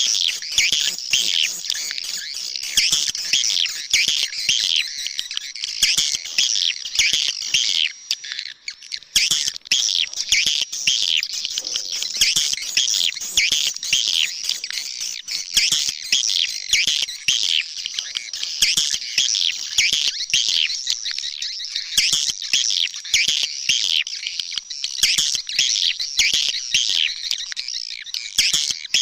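Swiftlets twittering and chirping in a dense, continuous chorus of rapid high calls overlapping one another, with a brief lull about eight seconds in. This is an edited swiftlet recording used as an outdoor lure call to draw swiftlets to a nesting house.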